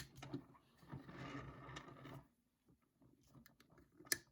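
LEGO plastic pieces and minifigures being handled: a sharp plastic click at the start, soft rustling and scraping, and another click near the end.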